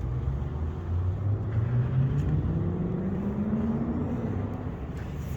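Truck engine accelerating away, its pitch rising steadily for about three and a half seconds.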